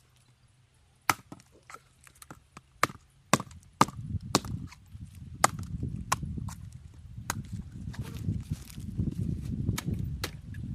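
A series of sharp, irregular knocks or chops, several per second at times, and later about one a second. A low rumbling noise comes in about four seconds in and continues under them.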